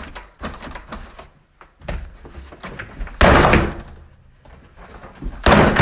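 A door being banged and slammed: scattered knocks, then two loud bangs about two and a half seconds apart.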